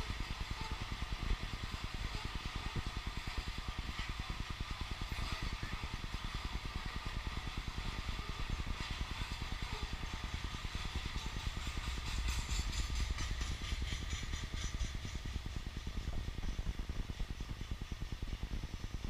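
Freight train of oil tank cars rolling past, a steady rumble with a rapid, continuous clatter of wheels on the rails.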